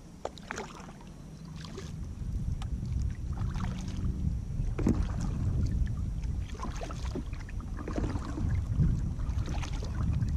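Kayak paddle dipping and splashing in canal water, a stroke about every second, over low wind rumble on the microphone.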